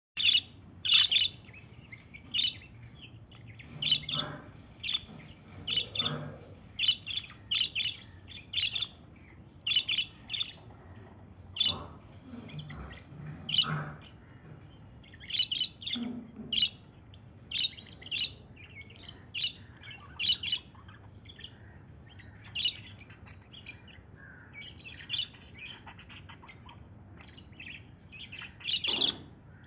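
Pet love birds (small parrots) chirping. Short, sharp, high calls come in quick runs of a few at a time, repeating throughout.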